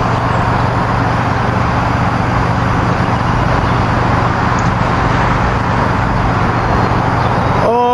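A train passing close by: a loud, steady rumble of wheels on rail with a low hum underneath, holding even throughout.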